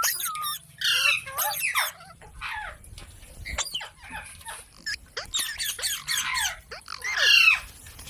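Parrot calling in quick runs of short squawks and chattering notes, several sliding down in pitch, with the loudest burst near the end.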